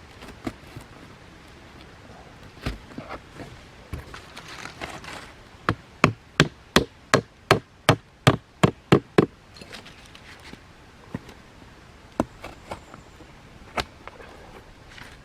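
Sharp knocks of hand-tool work: a run of about eleven strikes at roughly three a second around the middle, with a few scattered single knocks before and after.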